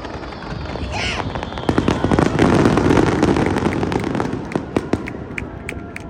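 Aerial fireworks going off in rapid succession: a dense barrage of booms and crackling with a short whistle about a second in. It builds to its loudest, continuous volley in the middle, then thins to scattered crackling pops near the end.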